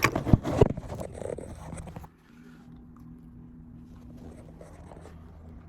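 A husky crunching and chewing a hard dog treat in a quick run of sharp bites for about two seconds. After that a quieter low steady hum remains.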